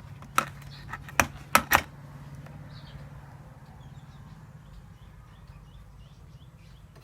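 Four sharp clicks in the first two seconds over a steady low electrical hum, with faint bird chirps in the background later on.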